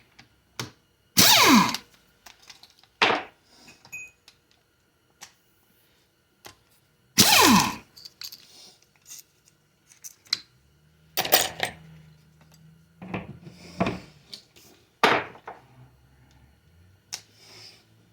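Hand work on a 4L60E automatic transmission's wiring harness and parts: scattered sharp clicks, knocks and metal clatter, with a few louder scrapes that drop in pitch.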